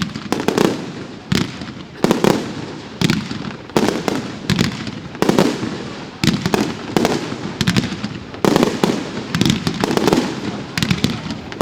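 Fireworks show: aerial firework shells bursting in quick succession, a sharp bang roughly every second or faster, each followed by a short rumbling tail.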